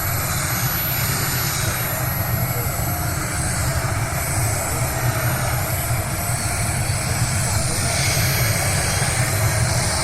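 A pulling tractor's engine running at full power: a loud, steady drone that grows slightly louder toward the end.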